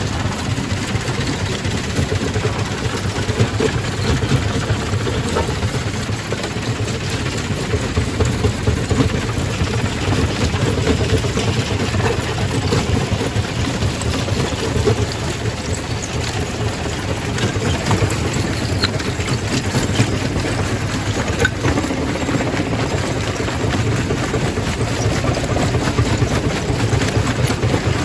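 Quarry primary rock crusher running steadily: a heavy machinery drone with scattered clicks and knocks of rock through it.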